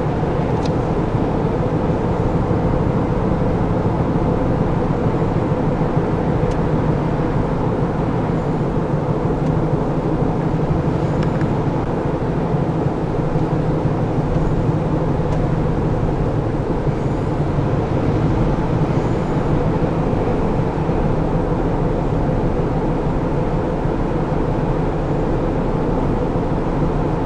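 2011 Honda Odyssey minivan driving, with steady engine and road noise and a few faint thumps from the front end. The owner takes the thumping for a front-end defect.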